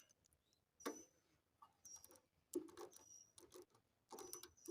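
Faint, scattered clicks and taps of hand tools and metal parts being handled on a small engine while its ignition coil is set and its mounting bolts are worked, with a few more clicks near the end.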